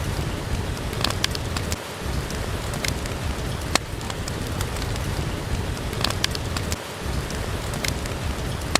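Steady rain falling, with a scattering of sharp pops and crackles from a fireplace fire.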